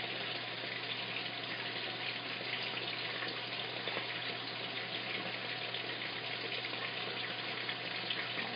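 Washing machine filling with water: a steady rush of water pouring into the drum, with a constant low hum under it.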